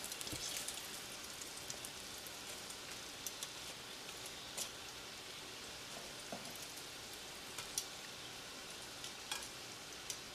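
Egg-battered morel mushrooms frying in hot oil in a skillet: a soft, steady sizzle with scattered small pops and crackles.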